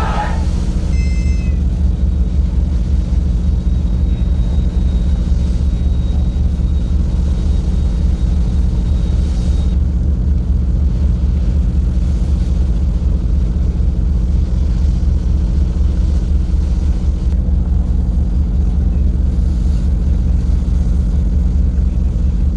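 Steady low engine drone with a deep rumble and several held hum tones, unchanging throughout. A faint high steady whine runs for a few seconds in the first half.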